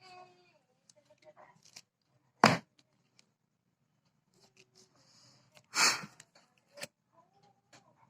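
A few hard knocks in a small room: one sharp knock a couple of seconds in and a longer, clattering knock about six seconds in, with light clicks between. A short squeak that falls in pitch comes right at the start.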